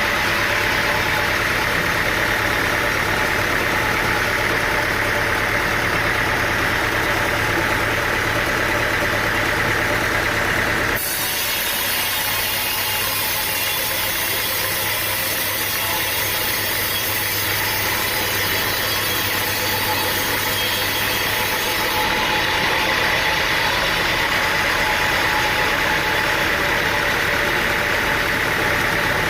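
An engine running steadily at idle with a constant low hum. Its tone changes abruptly about eleven seconds in and changes back about twenty-two seconds in.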